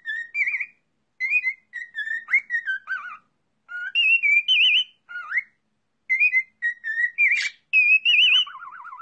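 Clear whistled notes in short phrases with brief gaps, some gliding and some warbling, ending in a lower wavering trill.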